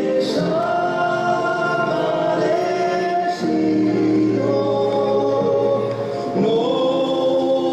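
Music with a choir of voices singing long held notes, moving together to a new chord about every three seconds.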